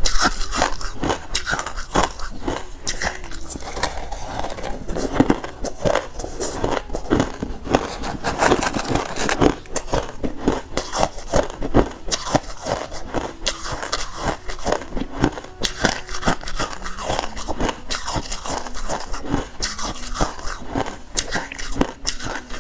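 A person chewing refrozen crushed ice: a continuous run of crisp crunches and crackles.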